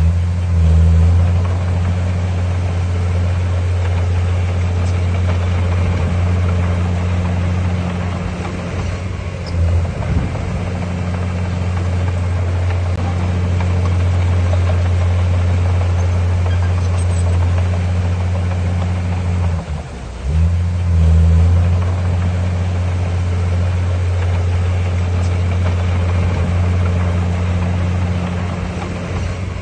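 Heavy construction-machine diesel engine running steadily with a deep, even drone. It eases off briefly about ten and twenty seconds in, then picks up again.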